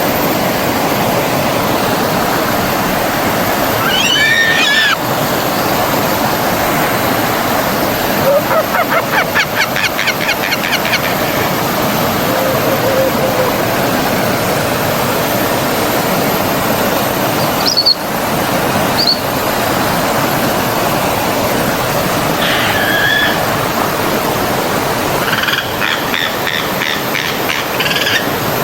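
Forest stream running steadily, with birds calling over it: a short call about four seconds in, a fast trill of repeated notes a few seconds later, brief high chirps past the middle, and another run of repeated notes near the end. A brief click about two-thirds of the way through.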